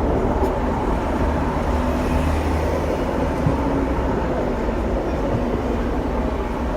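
Hong Kong double-decker tram running along its street track, heard from inside the car: a steady rumble of wheels on rails and running gear.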